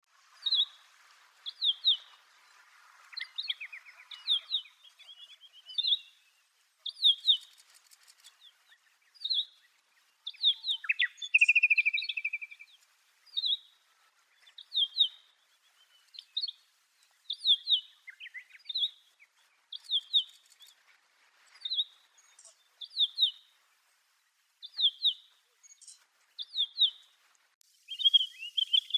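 Pine grosbeaks calling: short, clear chirps repeated about once a second, with a longer buzzy trill near the middle.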